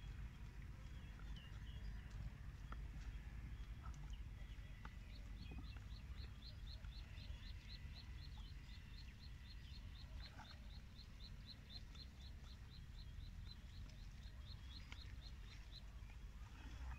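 A bird calling a long, even series of short high notes, about four a second, starting about five seconds in and stopping near the end, over a low steady rumble.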